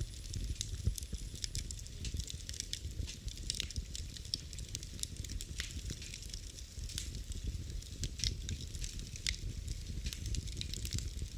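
Wood fire burning in a fireplace, crackling with many small irregular pops over a low steady rumble of flame.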